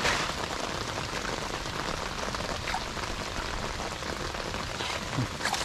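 Heavy monsoon rain falling steadily, an even hiss with no break.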